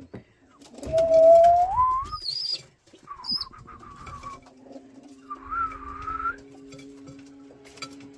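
Whistled calls: a loud note sliding upward, then two shorter wavering notes, with brief high chirps between them. A steady low hum sets in about three seconds in.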